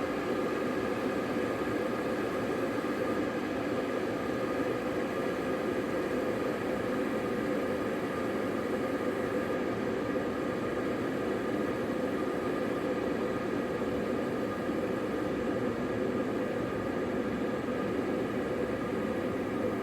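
Electric kettle heating water: a steady rushing noise with a faint hum, unchanging throughout.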